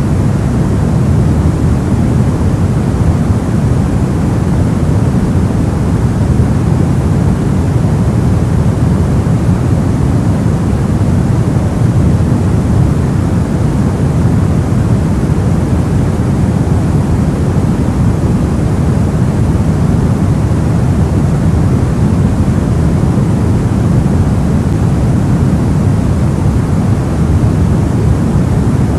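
Steady soft white noise for sleep: an even, unchanging hiss weighted toward the low end, deep and rumbling rather than bright.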